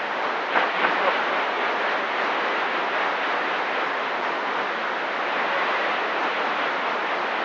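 CB radio receiver static: a steady hiss from the speaker on an open channel with no one transmitting, with three short clicks about half a second to a second in.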